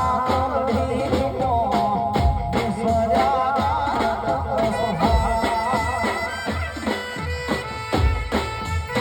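Live garba music, an instrumental passage: a reedy, ornamented wind-like melody over a steady drum and bass beat.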